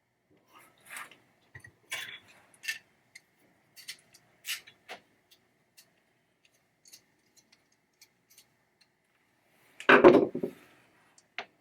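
Small metal parts and hand tools clicking and tapping as they are handled on a workbench, with a louder clatter about ten seconds in.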